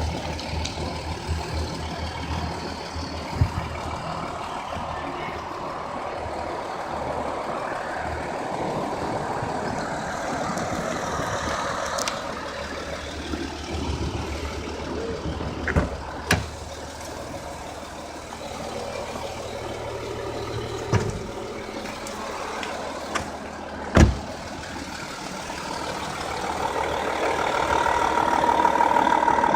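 Audi A4 3.0 TDI V6 diesel engine idling steadily, with a few sharp knocks over it, the loudest about three-quarters of the way through. The engine sound grows louder over the last few seconds.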